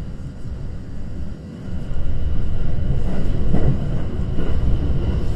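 Train running, a steady low rumble that gets louder about two seconds in.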